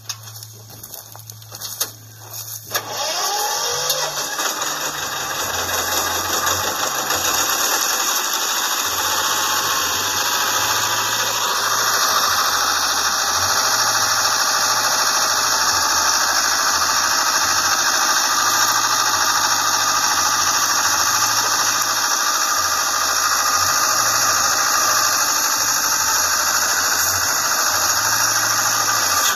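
A homemade excavator's engine is started after a few clicks about three seconds in, then runs steadily with a low, uneven rumble and a loud high hiss.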